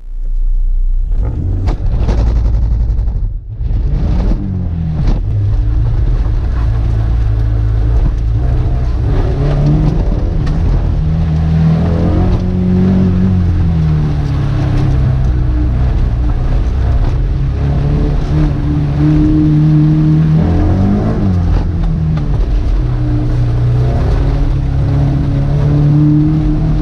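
Honda S2000's four-cylinder engine heard from inside the cabin while the car is driven hard. It revs up right at the start, breaks off briefly about three and a half seconds in, then rises and falls in pitch over and over as the car accelerates and slows.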